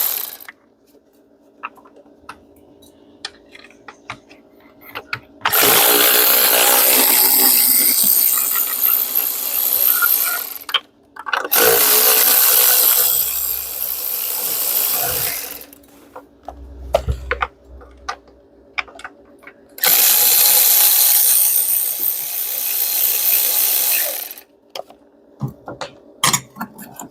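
Handheld power tool running in three spells of four to five seconds each, spinning out the intake manifold's 10 mm bolts, with light metallic clicks and taps between the runs.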